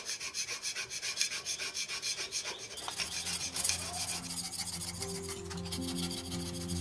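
Quick, even rasping strokes of hand work on a mild steel plate, several a second. Soft background music comes in about halfway through.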